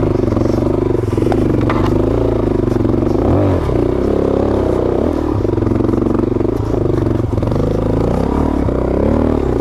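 Suzuki DRZ400S single-cylinder four-stroke engine labouring up a steep, rough climb, its revs rising and falling as the clutch is slipped to keep it pulling. A few light clatters from rocks and scrapes come through as well.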